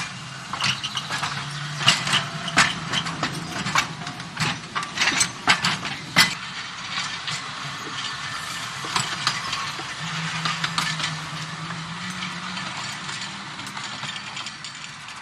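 Electric tram running on its track: a string of irregular clicks and knocks from the wheels and running gear over a steady low hum, the hum rising in pitch about ten seconds in as the motor speeds up.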